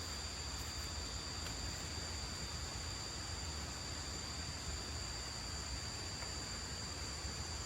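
A steady high-pitched chorus of forest insects, holding two unbroken pitches, over a faint low rumble.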